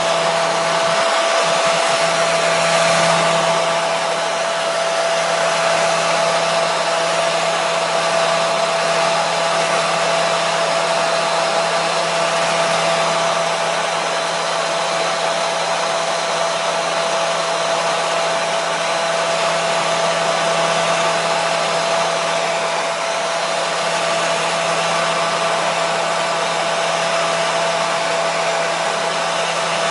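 Hair dryer running continuously: a loud, steady rush of air with a constant motor hum.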